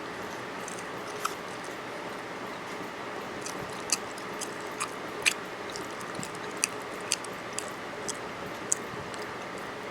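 A person chewing food, with scattered sharp mouth clicks and smacks over a steady background hum.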